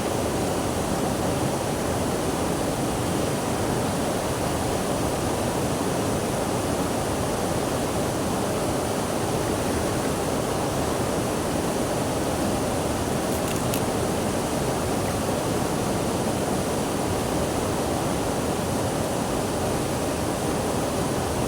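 Steady, even rush of flowing water, with no surges or breaks.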